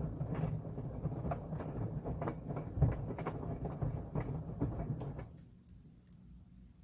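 Washing machine drum turning, a low rumble with irregular knocks and clicks of the tumbling load, which stops about five seconds in, leaving only a faint hum and occasional ticks as the drum pauses in the wash cycle.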